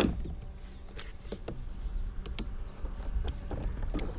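Handling noise on a fishing kayak: a sharp knock at the start, then scattered light clicks and taps over a low rumble.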